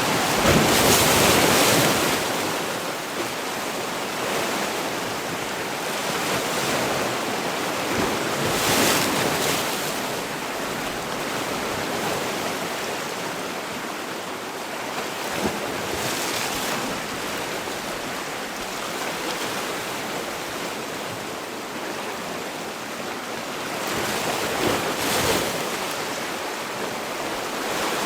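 Sea waves breaking and washing on the shore, a steady rush of surf that swells louder as each wave breaks, about every seven to eight seconds.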